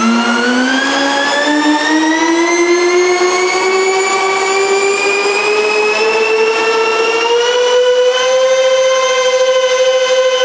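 Four electric ducted fans on a radio-controlled Airbus A380 model running together, their high whine climbing steadily in pitch as the throttle is advanced and levelling off about eight seconds in.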